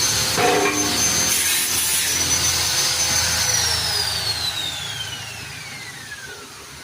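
Power disc cutter slicing through a steel canopy frame member, with a steady high whine. A little over three seconds in, the whine starts falling steadily in pitch and the sound fades as the released disc winds down.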